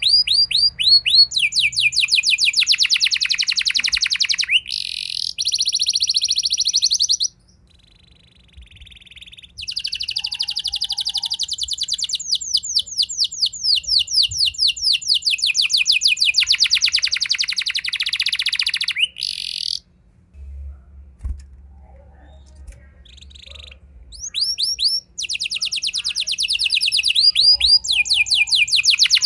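Domestic canary singing long rolling trills of rapid, evenly repeated falling notes, in several phrases with short pauses about seven seconds in and around twenty seconds in.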